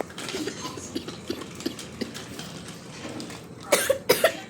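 Small hard toys being handled and knocking together in a run of light clicks and taps, then a few louder clatters near the end.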